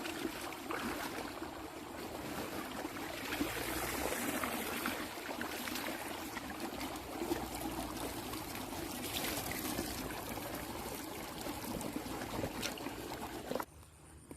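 Water running and trickling steadily, with small splashes here and there; it cuts off suddenly shortly before the end.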